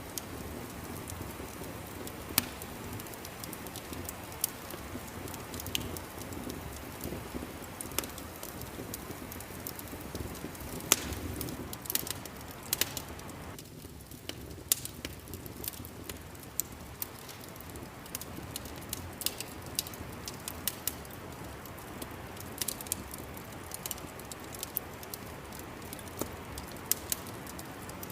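Wood fire crackling: a steady low rustle of burning, broken by sharp pops and snaps that come more often in the second half.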